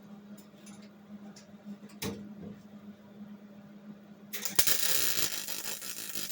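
A wire-feed welder laying a tack weld on a car's steel quarter panel: the arc starts about four seconds in and runs for about two seconds as a loud burst of noise. A single click comes about two seconds in, over a steady low hum.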